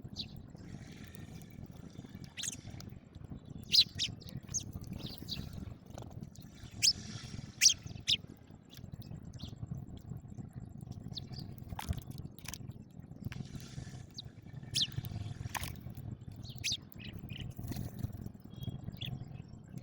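House sparrows chirping in short, scattered chirps, a few of them louder in the first half, over a steady low background rumble.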